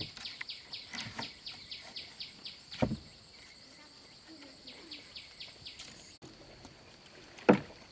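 An insect chirping in a fast, even series of high-pitched pulses, about three to four a second, fading after the first few seconds over a thin steady high drone. Two sharp knocks cut through it, one about three seconds in and a louder one near the end.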